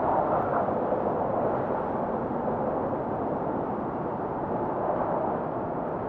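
Strong wind of a snowstorm blowing steadily, a rushing noise that eases a little just after the start.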